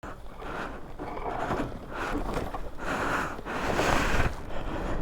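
A man's heavy, rhythmic breathing, about one breath a second, as he strains to push a heavy motorcycle by hand, over a low wind rumble on the microphone.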